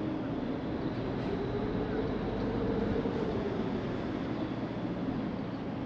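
Passenger ferry's engines running with a steady, low droning rumble and hum that swells slightly in the middle.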